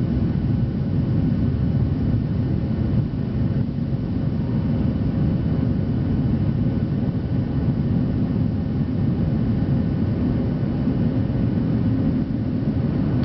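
Steady jet-airliner cabin noise during the climb after takeoff: a low, even rumble of the engines and rushing air with a faint steady whine, unchanging throughout.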